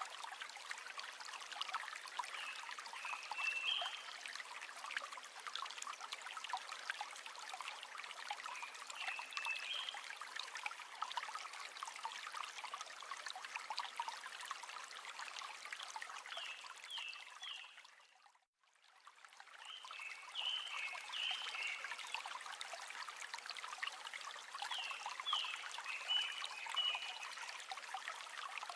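River water flowing and trickling steadily, with short high chirps every few seconds. About two-thirds of the way through, the sound fades out to silence and straight back in.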